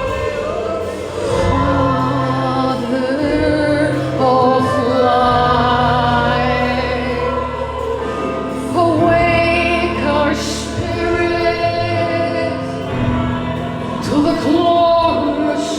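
Slow worship music: long, held sung notes with a choir-like sound over sustained low chords.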